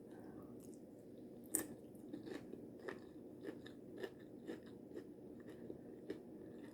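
A person chewing a mouthful of taco salad with tortilla chips: a crisp crunch about a second and a half in, then a run of small, quieter crunches as the chips are chewed.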